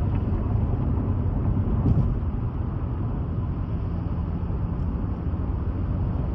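Steady low rumble of a car on the move, road and engine noise heard from inside the cabin, with a short knock about two seconds in.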